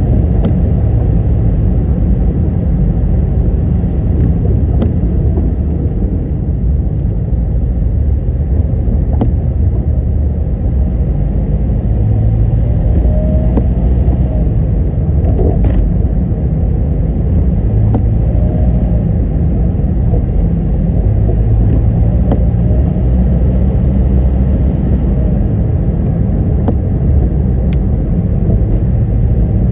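Steady low road rumble of a moving car: engine and tyre noise, with a few faint clicks now and then.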